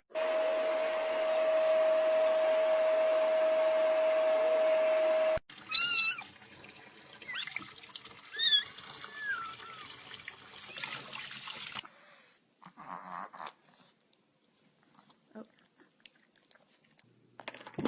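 A steady hum over a hiss that cuts off suddenly about five seconds in, then a cat giving a few short, high chirping meows, followed by faint scuffling.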